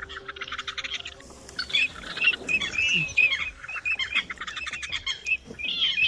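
Birds calling: a fast run of chirps, then many repeated short, squeaky calls.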